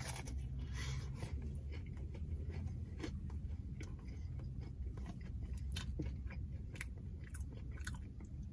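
Biting into and chewing a crispy breaded chicken tender: a run of small crunches and clicks over a low steady hum.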